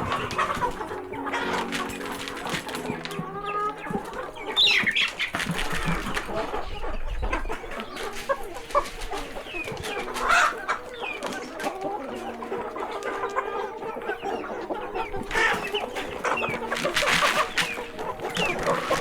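A flock of chickens clucking and calling, with louder calls about four seconds in, around ten seconds in, and again near the end.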